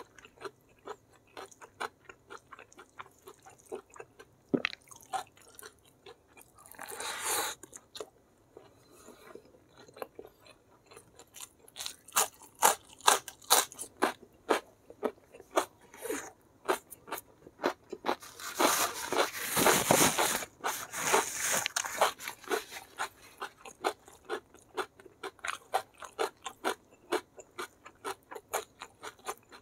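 Close-miked mukbang eating: steady chewing with many small crunches and mouth clicks, and a louder, denser run of crunching about two-thirds of the way through.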